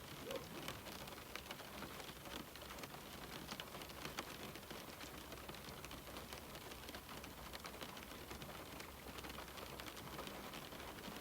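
Steady rain pattering on window glass, a continuous hiss with many small drop ticks scattered through it.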